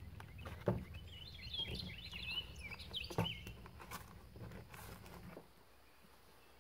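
A bird chirps in a quick twittering run over the first few seconds, and two sharp knocks come from rubber plucker fingers being worked into a plastic cap. Under them is a low steady rumble that cuts off about five seconds in.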